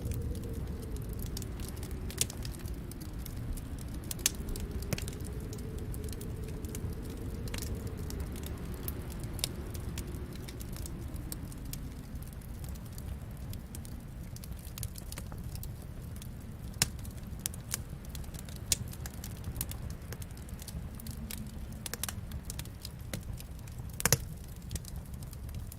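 Wood fire crackling, with scattered sharp pops and a louder pop near the end, over a low steady rumble that carries a wavering, rising-and-falling moan during the first half.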